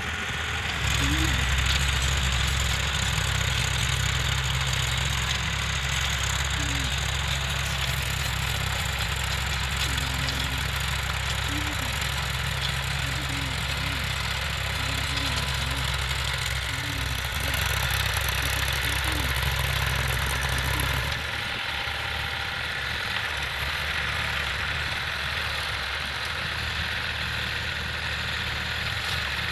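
Eicher 480 tractor's diesel engine running steadily at working speed while tilling with a rotavator. The deep engine hum drops away about two-thirds of the way through, leaving a lighter mechanical noise.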